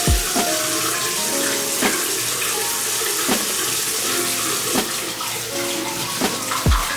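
Tap water running steadily into a sink, under background music with held notes and a soft beat.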